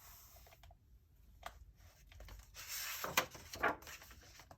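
A paper rustle from a picture-book page being turned, strongest between about two and a half and three and a half seconds in, with a few soft clicks.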